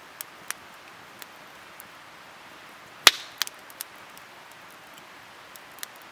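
Firewood crackling in an open campfire built on bare ground: scattered sharp pops over a soft steady hiss, the loudest crack about three seconds in, followed by a few smaller ones.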